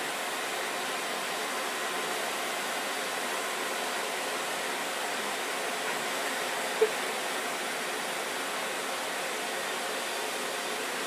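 Household vacuum cleaner running steadily with an even whooshing rush of air, with one short click about seven seconds in.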